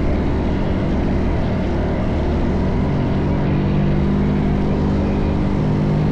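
Minibike engine running at a fairly steady speed, with little change in pitch.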